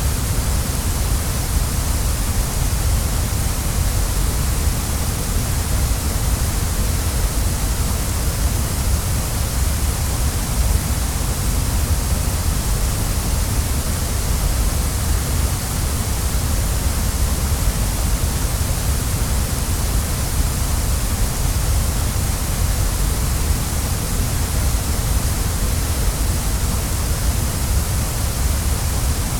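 Waterfall: water falling and rushing in a steady, unbroken roar of noise that runs from a deep low rumble up to a high hiss, with no change.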